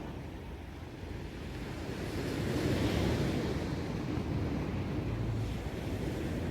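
Sea surf breaking and washing up the beach, one wave swelling to its loudest about three seconds in, with wind buffeting the microphone.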